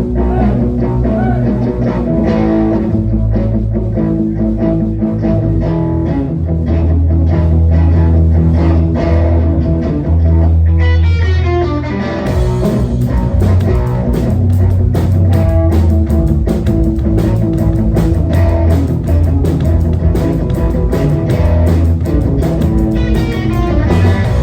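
Live rock band playing an instrumental passage with electric guitar, bass guitar and drums. About halfway through, the band moves into a fuller, brighter section.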